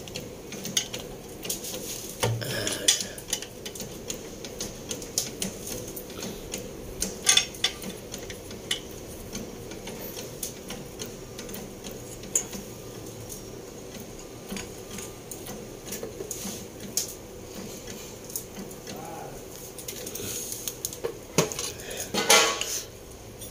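Irregular metallic clinks, taps and knocks of hand tools and small metal parts being handled during engine assembly, with a few louder knocks scattered through, over a steady low hum.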